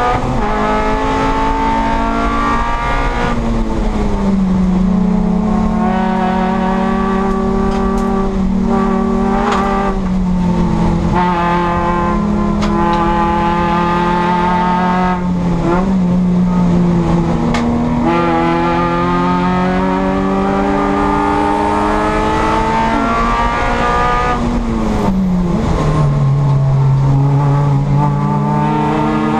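Toyota Yaris race car's four-cylinder engine under racing load, heard from inside the stripped cabin. The engine note climbs and falls with throttle, and its pitch drops sharply a few times at gear changes.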